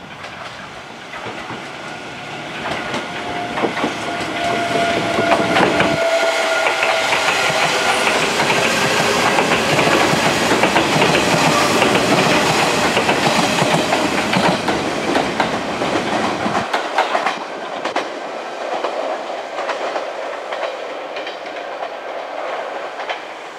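Hanshin electric commuter train passing close by: its wheels clack over the rail joints with an electric motor whine, building over the first few seconds, loud for about ten seconds, then dropping away sharply.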